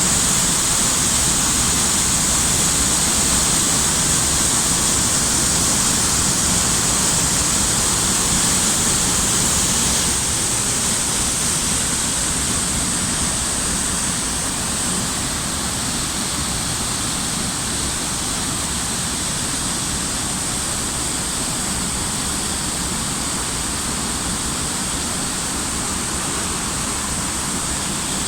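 Waterfall: a loud, steady rush of falling water that eases a little after about ten seconds.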